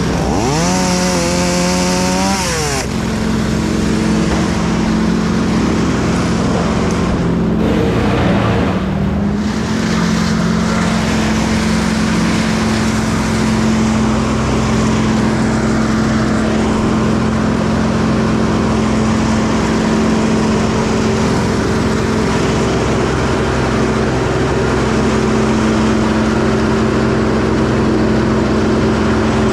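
A motor revs up in a steady rising sweep, with a hissing noise that cuts off after about three seconds. It then settles into a steady, even drone of heavy machinery running.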